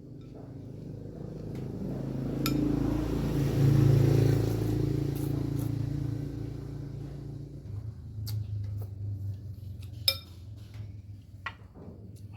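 A passing vehicle's engine grows louder and then fades, loudest about four seconds in. A few sharp clinks of a spoon against a bowl fall over it, one of them louder near the end.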